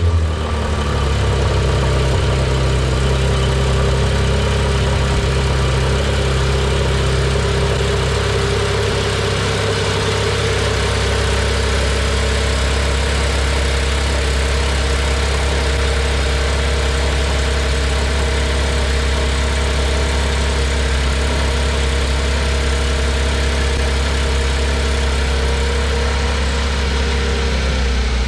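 Porsche 991.1 GT3's 3.8-litre flat-six idling steadily just after a start, run after an oil change to circulate the fresh oil and check for leaks.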